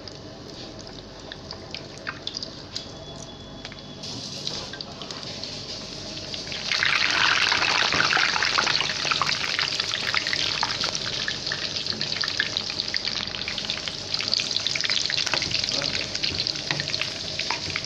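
Cornflour-and-egg-coated chicken pieces deep-frying in hot oil, a steady sizzle full of fine crackles. The sizzle gets clearly louder about seven seconds in.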